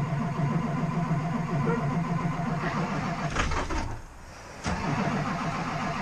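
An engine being cranked by its starter motor without catching, a fast, even pulsing. The cranking stops about four seconds in and starts again a moment later.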